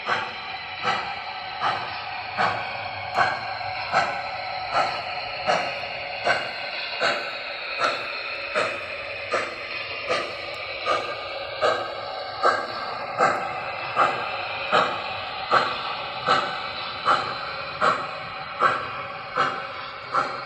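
O scale model steam locomotive running slowly, its sound system chuffing evenly about one and a third times a second over a steady rolling hum.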